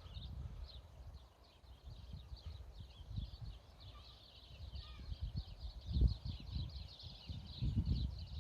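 A flock of small birds chattering in a tree: a constant stream of quick, high chirps. Low rumbles on the microphone, loudest about six and again about eight seconds in.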